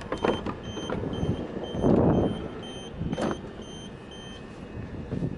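Train door-closing warning beeps, short high beeps repeating about twice a second and stopping a little before the end, with a few knocks and a heavier thump about two seconds in.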